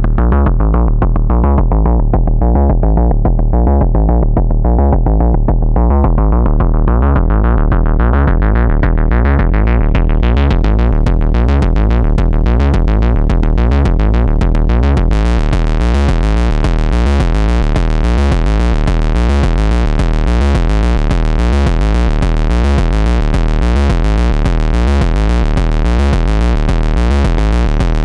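Synthesized kick drum and bass loop from an Ants! synth running through a Spice saturator, a heavy repeating low-end pattern. It grows steadily brighter and harsher, then turns fully bright and distorted about halfway through as the saturation is pushed.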